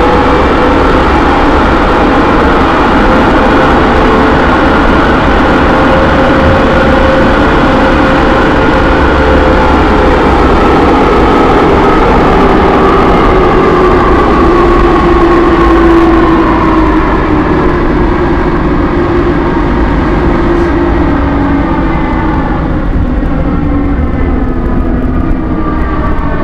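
MF67 Métro train running loud, its motor whine sliding slowly down in pitch as the train slows, over a steady rumble. It carries the odd noise from the motor car that the rider asks others to judge.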